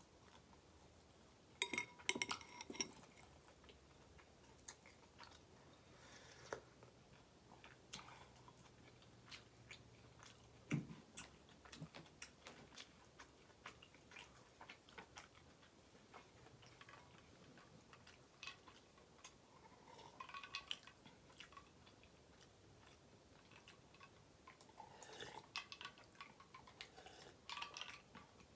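Faint close-up chewing and mouth sounds, with scattered light clicks and clinks of tableware. There is a louder cluster of clicks about two seconds in, and a run of glass-and-ice clinks near the end as a glass is lifted to drink.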